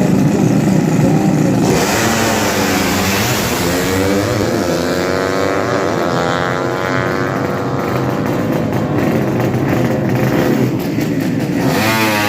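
Drag-racing motorcycle engine revving loudly, then launching about two seconds in. Its pitch climbs and drops again and again as it shifts up through the gears.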